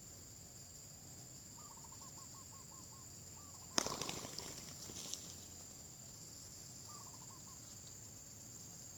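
Steady high-pitched insect buzzing with a bird calling twice in quick runs of short falling notes, about six notes at a time. A little over a third of the way in comes a sudden loud rustle that fades over about a second and a half, with a smaller knock near its end.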